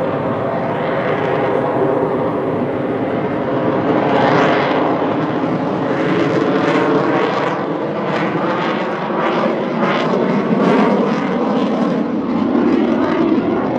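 Airplane engine running loud overhead in an air show display, its sound swelling and fading repeatedly as the aircraft manoeuvres.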